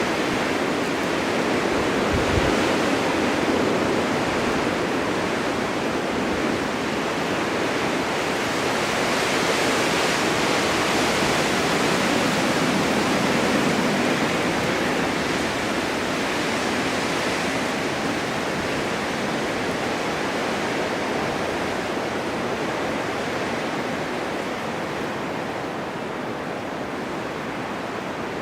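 Blizzard wind blowing steadily with driving snow, a dense rushing noise that swells and eases slowly and tails off a little near the end.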